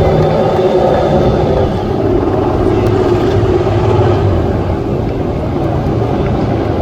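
MotoGP racing motorcycles running on the circuit, a loud, steady engine noise that eases slightly a couple of times.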